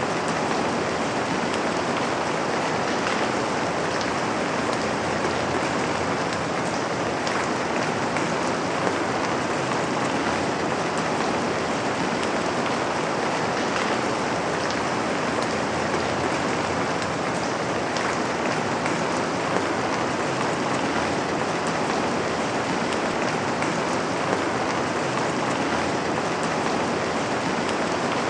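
Steady rain falling on a window: an even hiss with individual drops striking through it.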